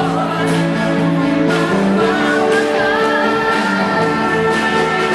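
Live band music with a singer's wavering voice over sustained instrument tones, punctuated by drum and cymbal hits.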